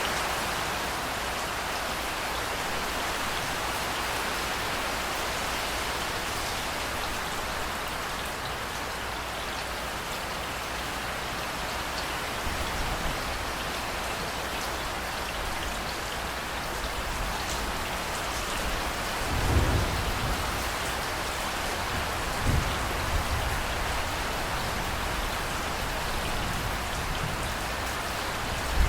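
Steady rain hissing down, with a few short low rumbles of thunder in the second half.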